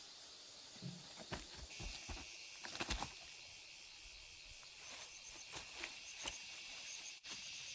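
Insects trilling steadily in high-pitched tones, with a second insect chorus joining about two seconds in, and scattered light clicks and knocks.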